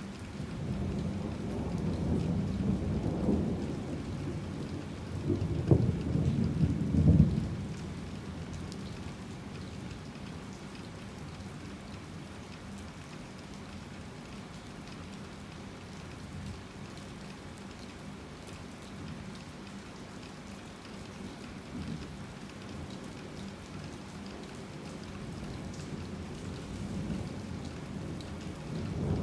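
Heavy rain falling steadily, with thunder rumbling in the first few seconds and a louder roll with sharp cracks about six to seven seconds in. Another rumble of thunder begins at the very end.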